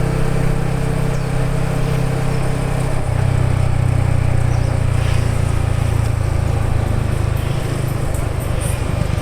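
Yamaha XSR 155's single-cylinder four-stroke engine running at a steady speed, its note shifting slightly about three seconds in.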